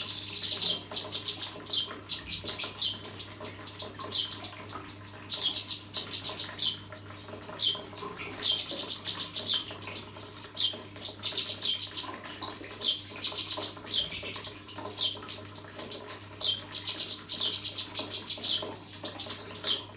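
Cucak kinoi singing: quick runs of high, rapid chirping trills with short breaks, and a lull about seven seconds in. A steady low hum runs underneath.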